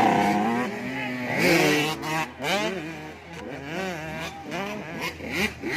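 Several 85cc two-stroke motocross bikes racing, their engines revving up and falling back again and again as the riders open and close the throttle.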